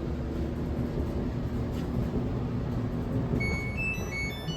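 Clothes dryer running with a steady low hum and rumble. Near the end an appliance control panel plays a short electronic chime of several quick beeps at changing pitches.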